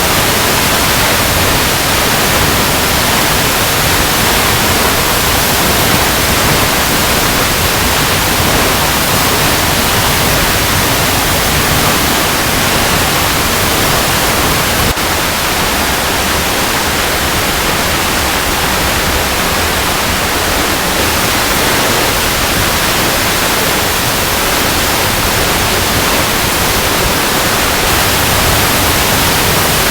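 Waterfall cascading over rocks: a steady, dense rushing of water, even across all pitches. The level dips slightly about halfway through.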